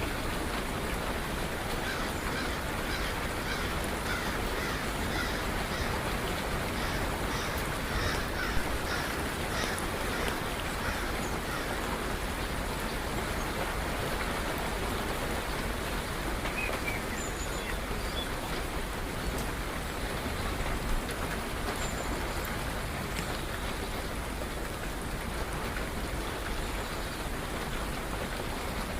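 Steady rain falling, with birds calling over it: a quick run of short repeated calls in the first third, then occasional faint chirps.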